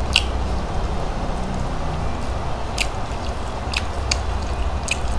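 A person chewing boiled shrimp, close to the microphone, with about half a dozen short, sharp clicks and smacks spread through the chewing.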